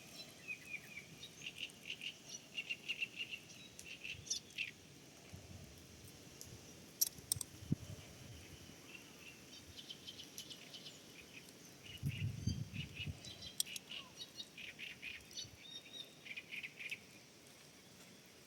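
Small songbirds chirping in repeated quick bouts of short, high notes. A couple of sharp clicks and a brief low rumble come partway through.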